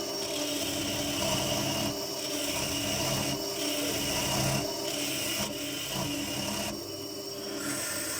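Wood lathe spinning a bird cherry blank while a turning tool cuts it, over a steady motor hum. The cutting hiss comes and goes in passes, easing off briefly several times.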